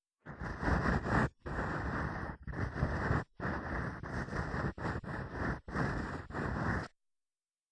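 Ear-cleaning ASMR sound: an ear pick scraping and rubbing close against the microphone in several long strokes with brief breaks between them, stopping about seven seconds in.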